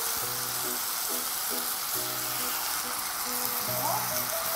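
Kimchi and pork sizzling as they are stir-fried in a stainless steel pot, with a steady frying hiss. Light background music of short held notes plays over it.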